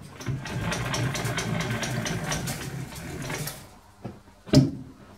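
Metal lathe running with a rapid mechanical chatter for about three and a half seconds, then fading out as it stops. About a second later comes one sharp metallic knock.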